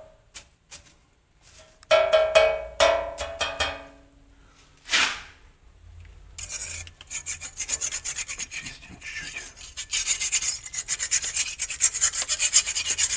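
A few short pitched clinks and a quick whoosh, then, about six seconds in, a dry, continuous rasping scrape starts and keeps going.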